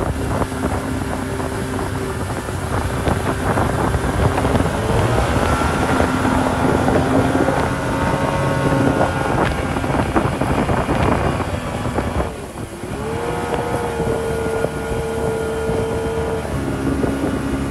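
Speedboat engine running under way, with wind buffeting the microphone. Its pitch holds fairly steady, dips briefly about twelve seconds in, then climbs and holds again.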